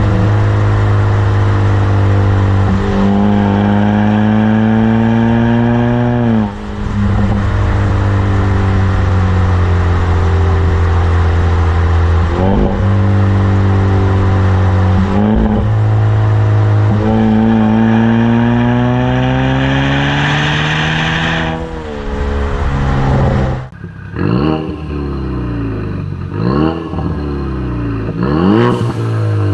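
Ford Mustang EcoBoost's turbocharged 2.3-litre four-cylinder engine through a Flowmaster Outlaw axle-back exhaust, accelerating hard through several gears: the note climbs in pitch, then drops at each shift. Near the end come several quick rev blips that rise and fall.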